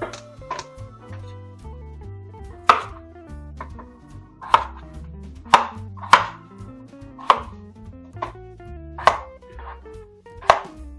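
Kitchen knife chopping vegetables on a cutting board: sharp single chops roughly once a second, unevenly spaced, over soft background music.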